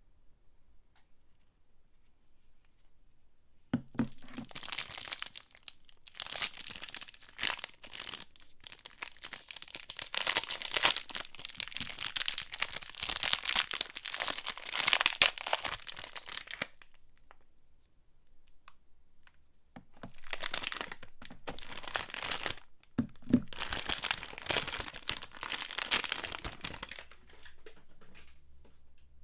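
Soap packaging being torn open and crinkled by hand, in two long spells of rustling and tearing that start about four seconds in, with a short pause between them.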